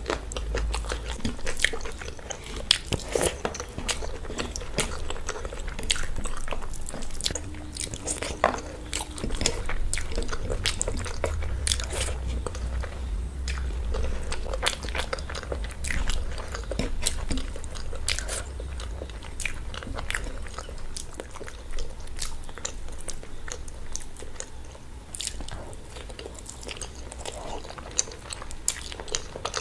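Close-miked chewing and wet mouth sounds of someone eating rice and curry by hand, with squishing of food being mixed and scooped from a steel plate. Many small sharp clicks and smacks come and go over a steady low hum.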